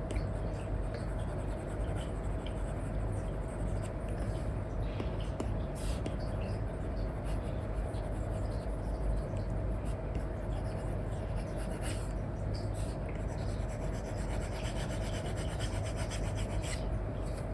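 Stylus nib rubbing and scratching across a paper-like matte screen protector in continuous coloring strokes, with a steady low hum underneath.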